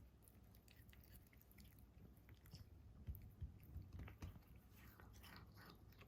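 A cat chewing and biting grass: faint, scattered little crunches and clicks, coming more often in the second half.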